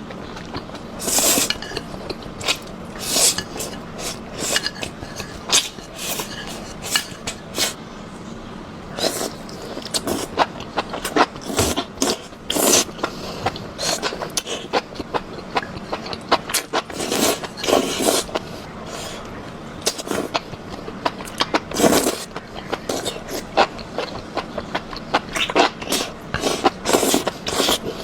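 Close-up mukbang eating sounds: irregular chewing, smacking and crunching mouth noises, each lasting a fraction of a second, with several louder crunches.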